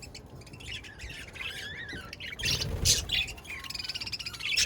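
Budgerigars chirping and warbling in wavering, gliding calls. A louder cluster of chirps comes about halfway through, and a fast chattering trill follows near the end.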